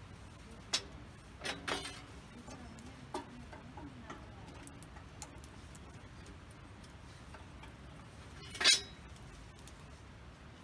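Wood campfire crackling: scattered sharp pops and ticks, with a louder crackle about one and a half seconds in and the loudest pop near the end.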